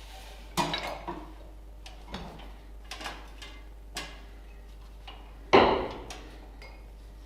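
Hand tools and metal parts clinking and knocking, scattered single strikes with one loud knock about five and a half seconds in.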